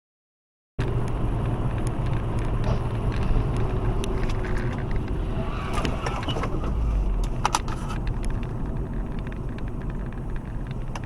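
Car driving: steady low engine and road rumble recorded by a dashboard camera, with a few sharp clicks and knocks, the strongest cluster a little past the middle. It starts and stops abruptly.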